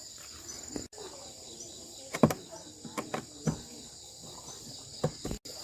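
Steady high-pitched chirring of insects, with a few sharp clicks and knocks about midway and near the end.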